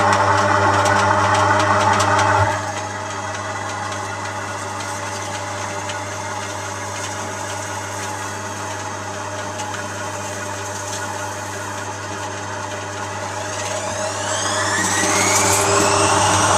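Zanussi washing machine's motor and drum running with a steady hum. The sound drops in level about two and a half seconds in, and near the end a rising whine builds as the motor speeds up toward a spin.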